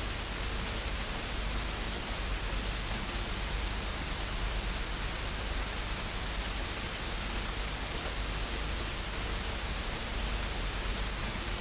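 Steady static hiss: an even, unchanging noise with no distinct events.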